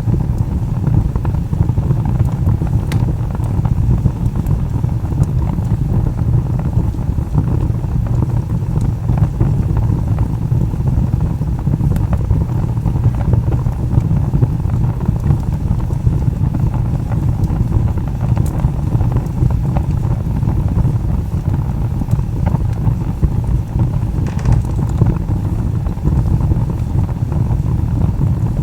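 Log fire burning with a steady low rumble and a few scattered sharp pops of crackling wood, plus a brief hiss about three-quarters of the way through.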